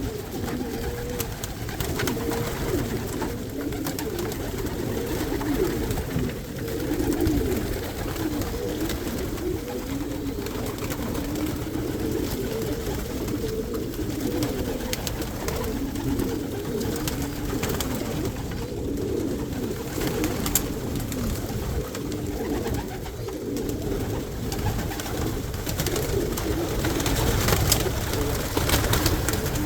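Many domestic pigeons cooing together in an overlapping, continuous chorus, with occasional sharp clicks.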